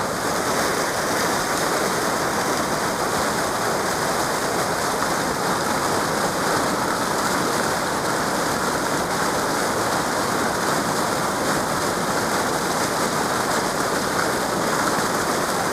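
Powerful glacial waterfall heard from close up: a steady, dense rush of falling water and spray.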